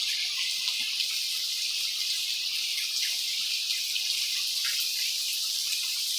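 Heavy rain falling steadily, an even hiss with a few separate drops ticking through it.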